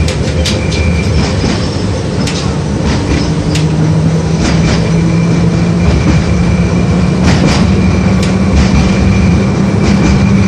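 LVS-86K tram running between stops, heard from inside the passenger cabin: a loud low rumble of wheels on rail with a steady motor hum that climbs slightly in pitch about halfway through, and scattered sharp clicks and knocks from the track.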